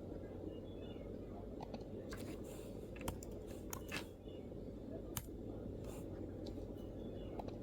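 MacBook keyboard keystrokes, a few scattered irregular clicks rather than continuous typing, over a steady low background rumble.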